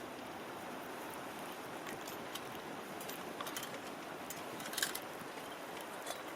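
Wood campfire burning with a steady hiss and scattered sharp crackles, one louder pop about five seconds in.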